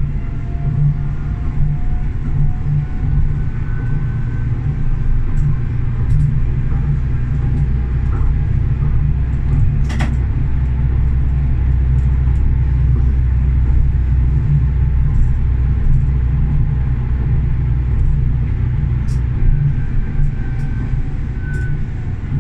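Tram running on its rails, heard from the driver's cab: a steady low rumble with a faint whine that slowly rises and falls, and one sharp click about ten seconds in.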